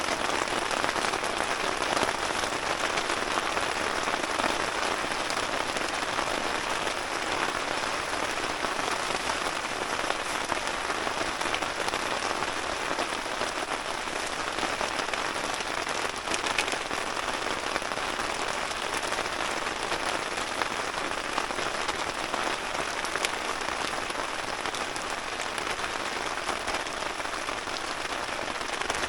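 Steady rain falling: a dense, even hiss of drops that holds unchanged throughout.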